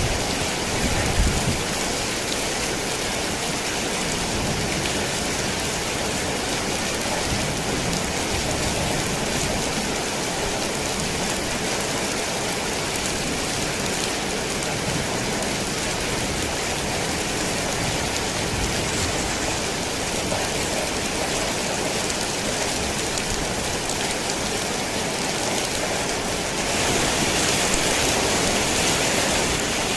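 Heavy rain pouring on a worn tin roof, a steady dense hiss. There is a brief low rumble about a second in, and the rain grows heavier for the last few seconds.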